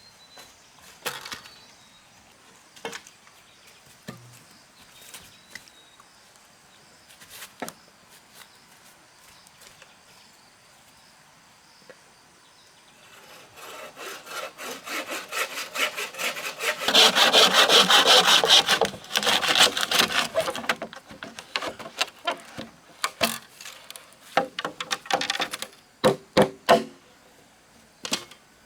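Hand saw cutting through a wooden post in quick strokes, starting about halfway through and loudest for a few seconds before it dies away. Scattered knocks before the sawing, and a few sharp knocks after it.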